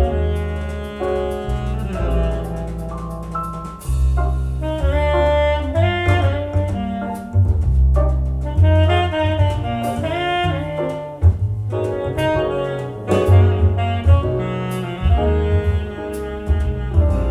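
Jazz played back through Sonus Faber Lumina V hi-fi loudspeakers: a saxophone line over double bass, with light percussive ticks.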